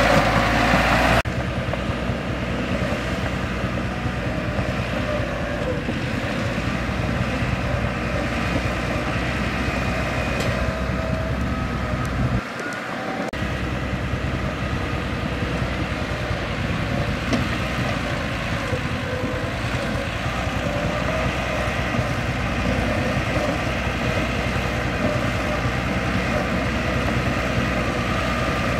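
Bulldozer's diesel engine running steadily while working, with a brief drop in the low end about twelve seconds in.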